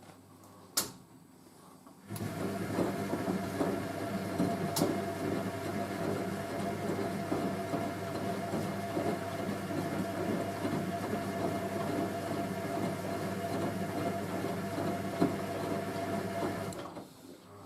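Hoover A3060 Electronic 1100 washing machine's motor turning the drum through a wash tumble, with a steady whine and a rhythmic churning from the heavy load. It starts suddenly about two seconds in and stops shortly before the end, after a sharp click about a second in.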